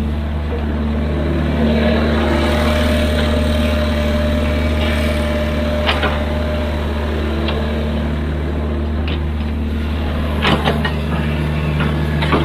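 Excavator's diesel engine running steadily at working revs, with a held higher tone for a few seconds in the first half. Sharp metallic knocks come once about midway and several times near the end.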